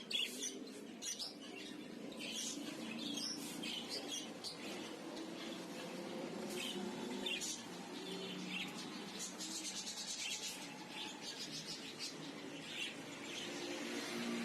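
Many caged birds chirping at once, short high chirps overlapping without pause, over a steady low background hum.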